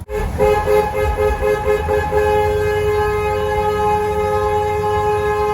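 Car horn sounded inside a road tunnel: a run of quick short honks, about four a second, then held down as one long steady blast.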